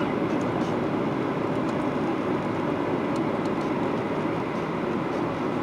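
Steady rumble and hiss inside the passenger cabin of a Boeing 737-800 in flight or on the landing run: engine noise and airflow, even in level throughout.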